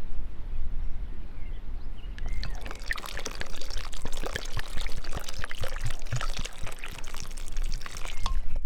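Water pouring and splashing, starting about two seconds in with an irregular spatter, and stopping suddenly near the end.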